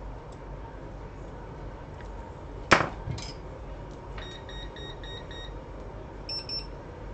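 A sharp knock, then a quick run of about five short electronic beeps, about four a second, and two short higher beeps near the end, over a steady low hum.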